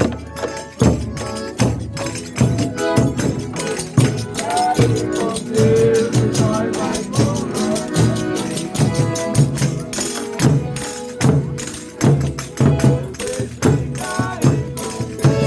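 Folia de Reis folk music played live: a tambourine beats a steady rhythm under sustained pitched instruments.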